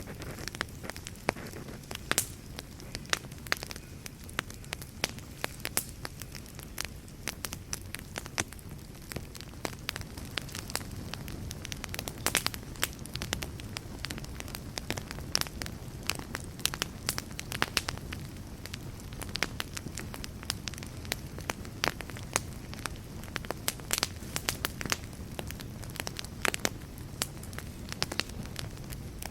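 Wood fire burning in a fireplace: a low steady rumble of flames with frequent sharp crackles and pops, several a second.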